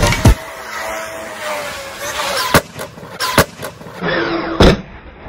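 RC car running, its motor whine rising and falling in pitch, with a loud sharp knock about a third of a second in and three more sharp knocks later from the car hitting or landing.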